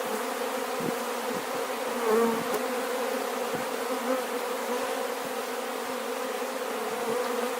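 A mass of honeybees buzzing steadily at an open hive, disturbed as they are knocked off a board, with a few faint knocks.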